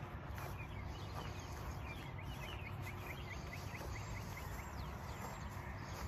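A bird calling in a quick run of short falling chirps, about six a second for two seconds, over a steady low rumble and a few soft footsteps on grass.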